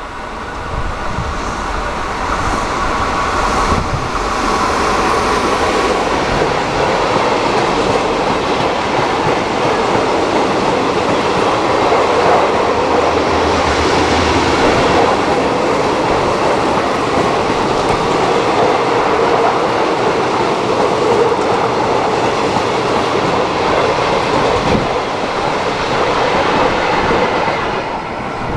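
Freight train passing close by, its rumble growing louder over the first few seconds as it nears. Then a steady, loud rolling of wagon wheels on the rails with a rhythmic clatter, easing off near the end as the last wagons go by.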